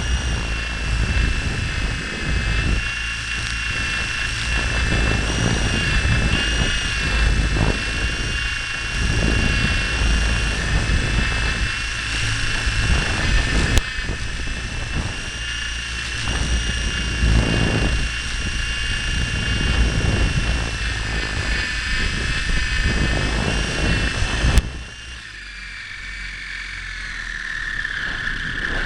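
Tiny electric RC toy helicopter in flight: its motor and rotors whine steadily at a high pitch, over a heavy, fluctuating low rumble of air buffeting the microphone. A sharp click comes about halfway through and another near the end, after which the low rumble drops away while the whine continues.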